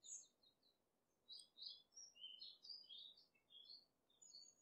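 Faint birdsong: small birds chirping in quick runs of short, high notes, with a brief pause about a second in.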